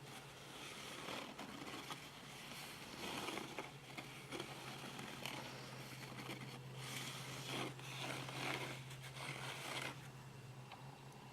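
Irregular scraping and rustling from hands working with succulents, their pots and soil, in short uneven bursts over a low steady hum that stops near the end.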